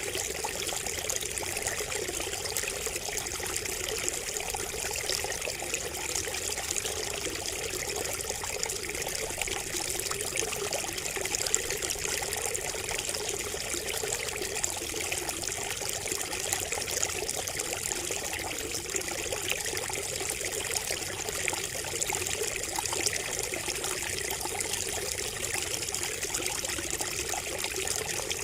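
Water trickling steadily from a bamboo spout, a continuous splashing flow that does not change.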